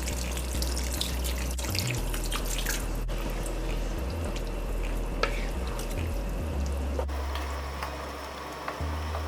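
Boiling water being poured into a wok of rice and pigeon peas, splashing and spattering irregularly, easing off a little near the end.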